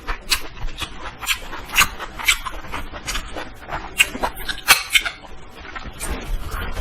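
Close-miked eating of Indomie instant noodles: wet mouth smacks and chewing clicks at an irregular pace.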